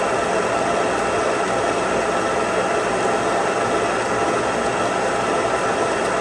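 Old Kearney & Trecker horizontal milling machine running steadily, its shell mill taking a hand-fed roughing cut in the counterbore, a continuous mix of gear and spindle whine with cutting noise.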